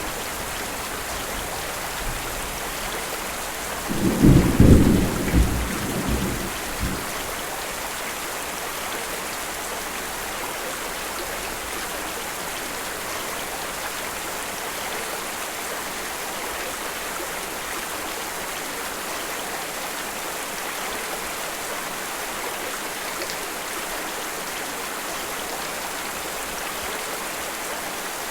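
Steady rain falling, with a roll of thunder about four seconds in that rumbles for a few seconds and fades away.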